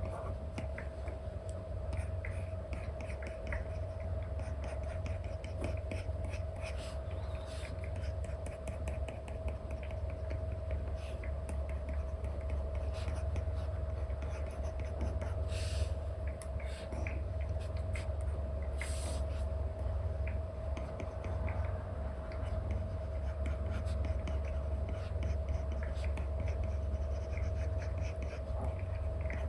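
Stylus nib tapping and scratching on an iPad's paper-like screen film: many light taps and short strokes, with two longer scratchy strokes a little past halfway. A steady low hum runs underneath.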